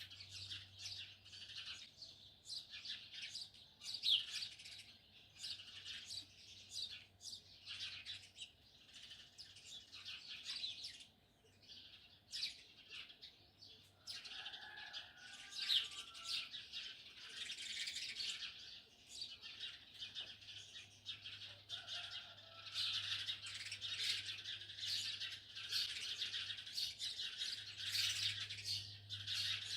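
A chorus of small songbirds chirping and twittering in quick overlapping calls, busier over the last third.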